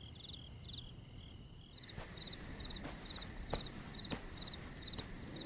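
Faint night ambience of crickets chirping in steady repeated pulses. About two seconds in, a second, higher chirping pattern takes over, with faint scattered clicks.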